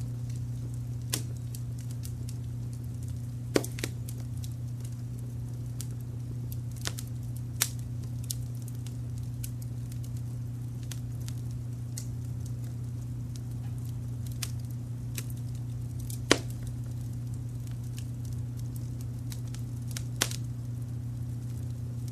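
Wood fire crackling, with a handful of sharp pops scattered through, the loudest about two-thirds of the way in, over a steady low brown-noise hum.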